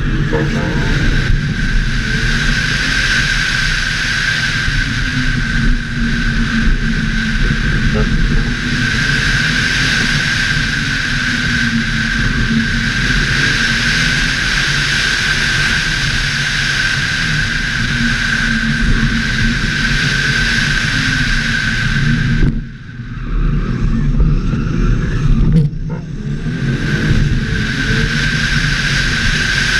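Audi RS4 race car's engine running hard at speed, with a steady high whine over the engine and road noise, heard from a camera on the bonnet. Near the end the sound drops away sharply twice for a moment, then picks up again.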